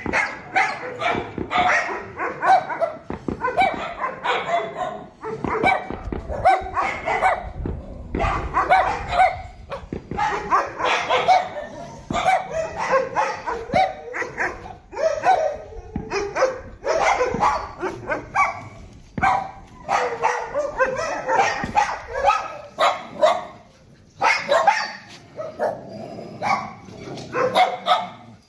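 Many dogs barking at once, a dense, continuous chorus of overlapping barks with a few brief lulls.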